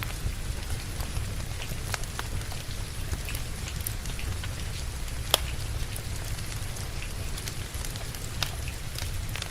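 Steady rain with a low rumble underneath, mixed with a crackling wood fire whose scattered sharp pops stand out, the loudest about five seconds in.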